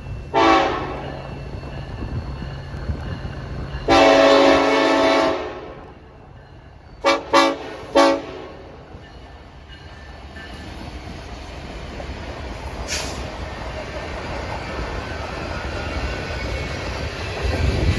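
Diesel freight locomotive's air horn sounding a series of blasts: a short one, a long one about four seconds in, then three quick toots around seven to eight seconds in. The low rumble of the approaching train builds near the end.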